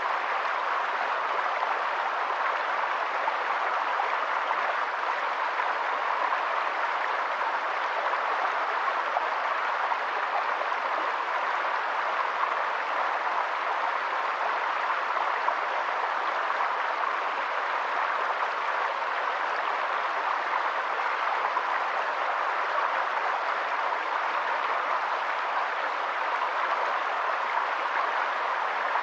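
Steady, unbroken hiss of water, like a stream or steady rain, with no changes.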